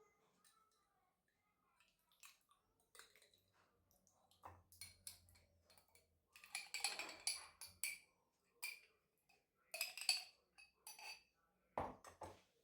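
Faint kitchen handling sounds: irregular clinks, taps and knocks of utensils and dishes, busiest in a few short clusters.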